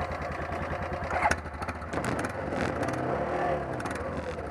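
ATV (quad) engine running, its pitch rising and falling as the throttle changes, with a sharp short knock about a second in.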